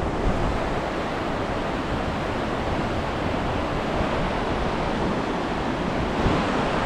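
Waterfall and fast-flowing river water making a steady, even roar.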